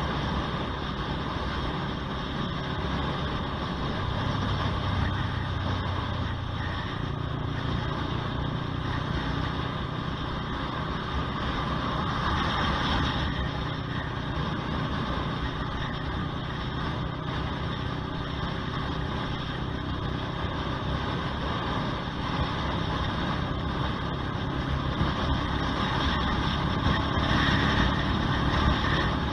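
Honda CBR125R's single-cylinder four-stroke engine running while the motorcycle is ridden, with road and wind noise; the engine note shifts a few times, stepping up about seven seconds in.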